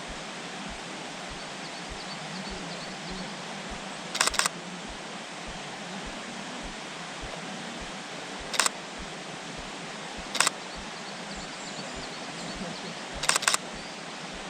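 Nikon camera shutter firing: a rapid burst of about three frames about four seconds in, single frames a little after eight and ten seconds, and another rapid burst of about three frames near the end. A steady hiss of background noise runs underneath.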